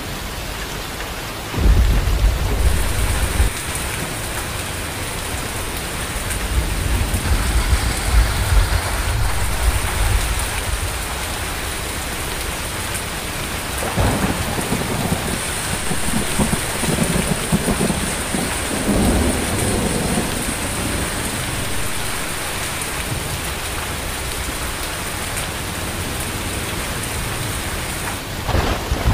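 Steady rain with thunder: a sudden low rumble about two seconds in that rolls on for several seconds, and a second, softer rumble from about halfway through.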